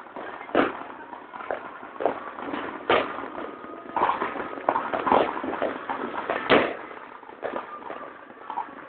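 Fireworks going off: a string of sharp bangs at irregular intervals, about half a dozen loud ones with smaller pops between.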